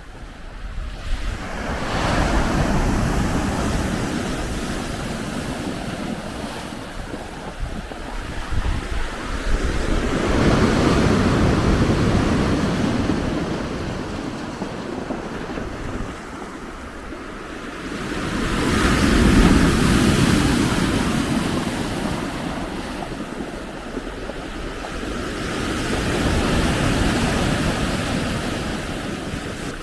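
Blizzard wind with lake waves breaking on the shore: a rushing noise that swells and fades about every eight seconds, with wind rumbling on the microphone.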